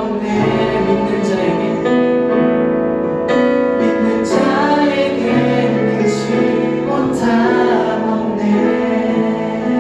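Church praise team singing a worship song in Korean, several voices together with keyboard accompaniment holding chords.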